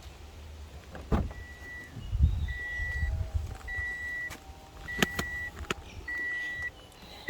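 A car door shuts with a thud about a second in, then the Toyota Vitz's dashboard warning chime beeps steadily, about once a second, with a couple of sharp clicks in between.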